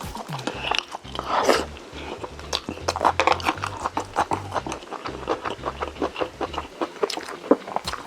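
Close-miked eating sounds of Korean braised chicken (jjimdak) being chewed: dense, irregular wet clicks and smacks of the mouth, with a longer, noisier sound about a second and a half in.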